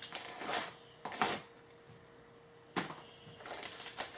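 Sealed trading-card boxes being handled: a few sharp knocks and rustles spaced through the first three seconds, then a quicker run of them near the end.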